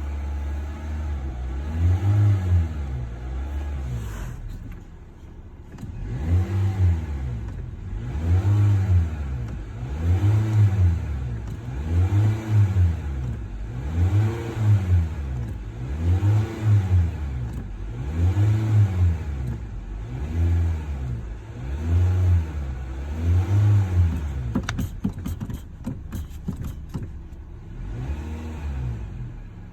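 2020 Honda Civic's four-cylinder engine being revved over and over, each blip rising and falling in pitch, about one every two seconds. A short lull about five seconds in, and a few sharp clicks near the end.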